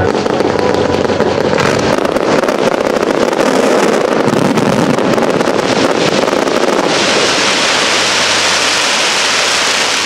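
Fireworks finale: a dense, continuous barrage of bursting shells and crackling stars that blends into a steady roar. About seven seconds in, a sharper, hissier crackle takes over.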